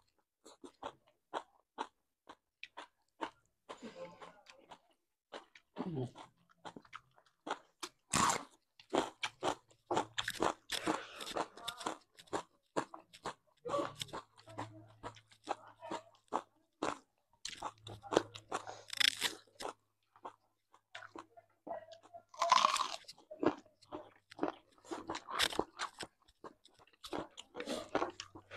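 Close-miked chewing and crunching of food, with many short wet mouth clicks and louder crunchy bites every few seconds.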